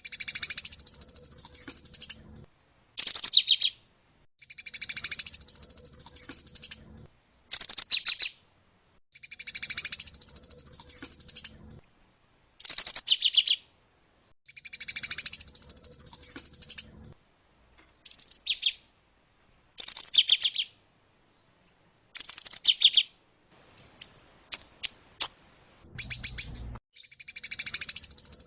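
White-rumped shama song: repeated rapid, buzzy rattling phrases about two seconds long, alternating with shorter sharp phrases, and a quick run of high whistled notes near the end.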